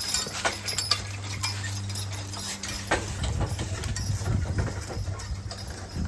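Hooves of a team of draft horses clopping at a walk, with scattered irregular knocks. A steady low hum runs for the first couple of seconds and gives way to a low rumble.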